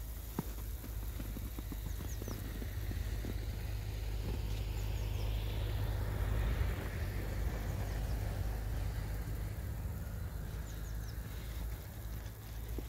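A vehicle passing by on the street: its noise swells to a peak about halfway through and then fades, over a steady low rumble. A few faint, short, high chirps come and go.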